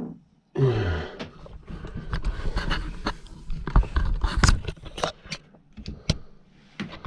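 Clicks, knocks and scrapes of small metal parts and tools being handled while motorcycle carburetors are taken apart, an irregular run of sharp ticks and scraping.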